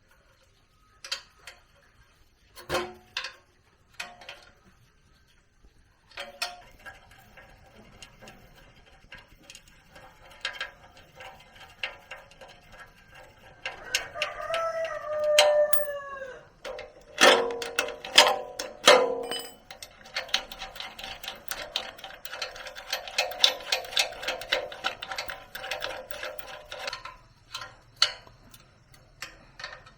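A rooster crowing, a few falling calls about halfway through, among many sharp clicks and knocks that come thickest just after the crow.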